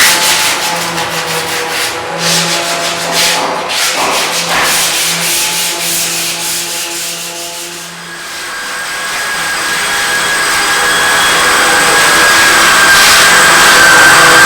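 Rough rubbing or scraping strokes, then, about eight seconds in, a machine's steady whine that grows gradually louder.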